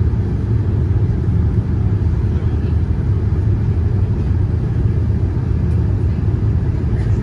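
Steady low rumble of a Boeing 787-9 airliner with GEnx engines, heard from inside the passenger cabin.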